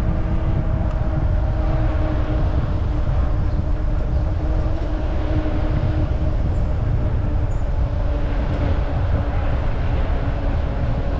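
Wind rumbling on an action camera's microphone while riding an e-bike, with a faint steady hum underneath that slowly falls in pitch.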